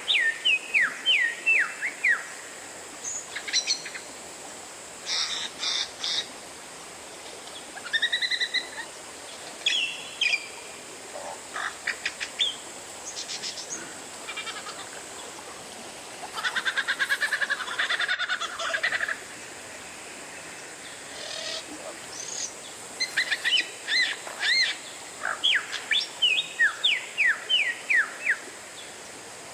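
Oriental magpie-robin (kacer) singing a varied song: runs of quick up-and-down whistled notes, short clustered phrases, and a fast rattling trill about 17 seconds in.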